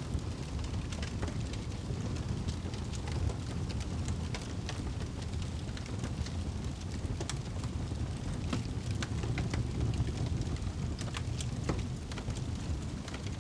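Wood fire burning in a fireplace: a steady low rumble of flames with frequent small sharp crackles and pops scattered irregularly throughout.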